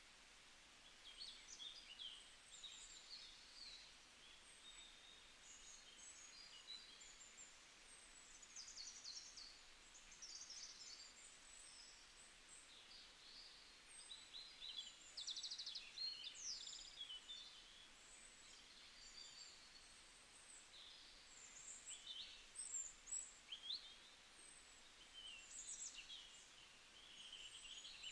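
Faint birdsong: many short, high chirps, quick whistled glides and rapid trills scattered throughout, over a low steady hiss.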